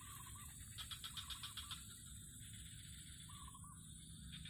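Faint outdoor bird calls: short warbling notes three times and bursts of rapid chatter, over a steady high-pitched hum.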